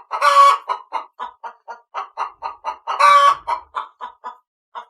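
Hen cackling: a quick run of short clucks, about four or five a second, broken twice by a longer, louder squawk.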